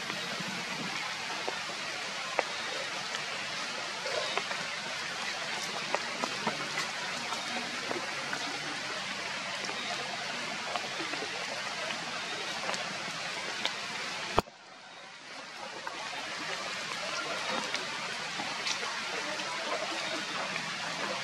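Heavy rain falling steadily, with scattered sharper drop hits. About two-thirds through, a sharp click cuts the sound down, and the rain swells back over the next couple of seconds.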